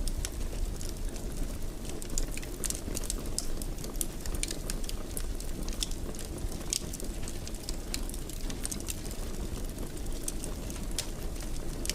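Wood fire burning in a fireplace: a steady low rumble of the flames with frequent irregular crackles and small pops.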